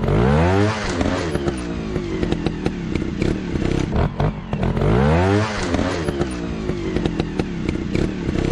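Motorcycle engine running with sharp clattering knocks. It revs up and back down twice, about a second in and again around five seconds in.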